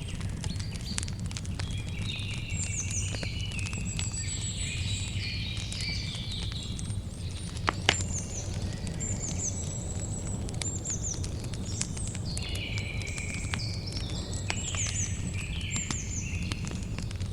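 Campfire crackling with frequent small pops and one sharper pop about eight seconds in, over a low steady rumble. Birds chirp and call repeatedly throughout.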